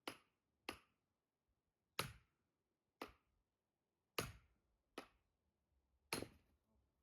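Seven sharp chopping strikes of a blade into firewood, each a short crack with a brief decay, coming irregularly about one every second.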